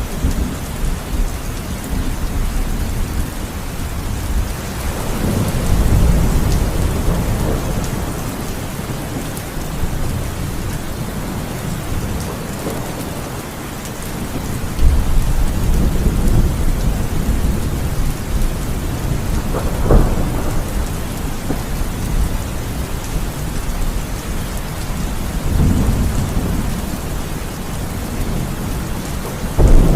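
Heavy rain falling steadily, with rumbles of thunder rolling in and fading several times, the strongest about fifteen and twenty seconds in.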